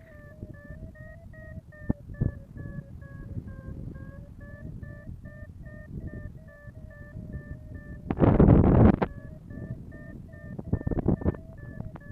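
Flight variometer beeping steadily in a rapid series of short tones, its pitch sagging slightly and then recovering, the sign of a gentle climb in lift. Wind buffets the microphone throughout, with a loud gust about two-thirds of the way through.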